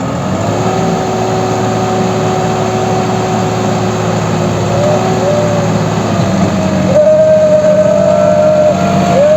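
Tractor engine revving hard under load as the stuck tractor is driven out of the mud: the pitch rises and holds, drops about six seconds in, then climbs again a second later.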